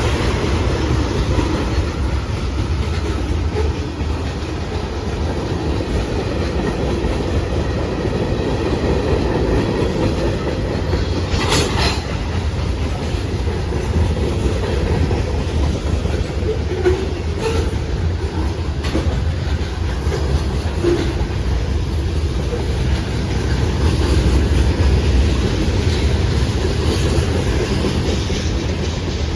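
Freight cars of a CSX manifest train rolling past steadily, wheels clacking over the rail joints. About twelve seconds in, a brief sharp metallic noise stands out above the rumble.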